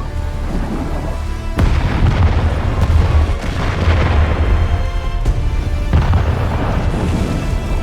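Dramatic film score under deep booming explosions: a continuous low rumble, with sharp blasts about a second and a half in and again about five seconds in.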